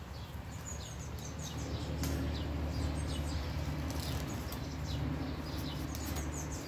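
Small birds chirping in many short, quick falling notes, over a low steady hum that grows louder after a second or so.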